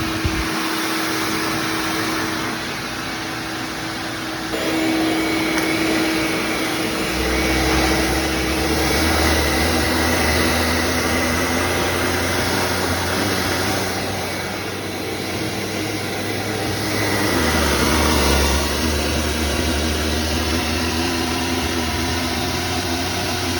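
Shop vac motor running steadily with a constant whine, and a deeper hum joining about seven seconds in.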